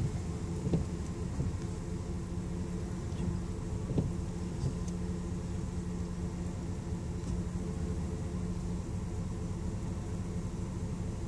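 Car engine running steadily at low speed, a low even hum with a couple of faint knocks.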